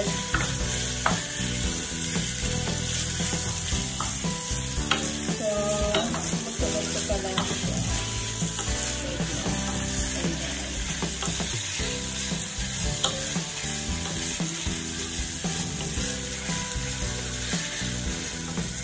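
Minced beef and onions sizzling and frying in a pan as the raw meat is browned, stirred with a wooden spatula, with occasional clicks of the spatula against the pan.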